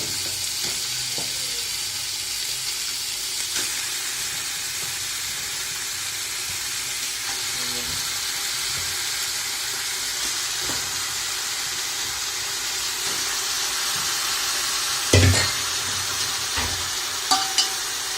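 Chicken pieces sizzling in hot oil and ginger garlic paste in a pan, a steady frying hiss. A single knock sounds about 15 seconds in.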